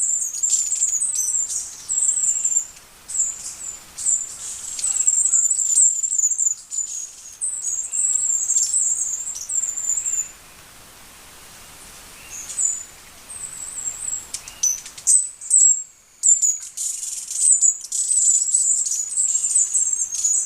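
Hummingbird giving rapid series of very high-pitched, squeaky twittering chips, broken by a pause of about two seconds about halfway through.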